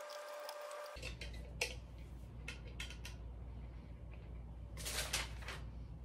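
Scattered light clicks and knocks of a metal desk frame being handled and screwed together with a hand screwdriver, over a low steady hum. A brief steady tone fades out in the first second.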